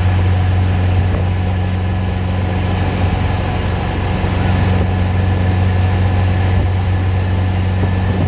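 Engine of a 31-foot Wellcraft cruiser running steadily, a constant low hum.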